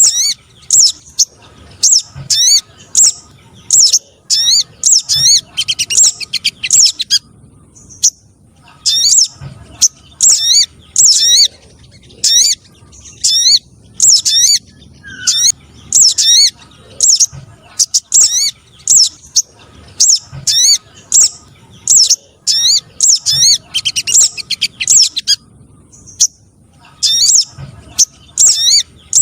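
Lure recording of sogon trotol (streaked spiderhunter-type) calls: fast series of sharp, high chirping notes in bursts of about a second, repeated with short pauses, meant to draw wild spiderhunters in.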